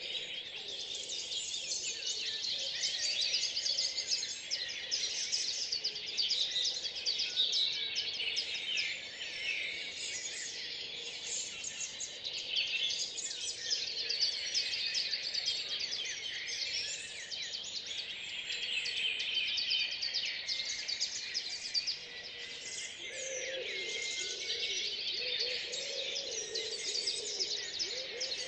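Many songbirds singing at once in a dawn chorus, with dense, overlapping high phrases throughout. A lower-pitched call joins near the end.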